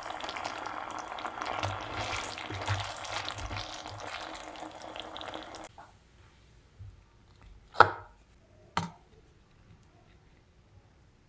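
Chicken thigh and zucchini in a thick soy sauce sizzling and crackling in a pan as a wooden spatula turns them. The sizzle cuts off suddenly about halfway through, and two sharp wooden knocks follow, a second apart.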